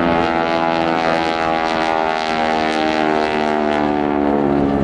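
Propeller-driven aircraft flying past, its engine note falling slowly in pitch.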